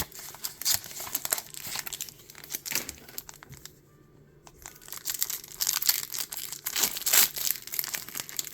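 Pokémon card booster pack packaging being crinkled and torn open by hand, in irregular crackly bursts with a short lull about four seconds in.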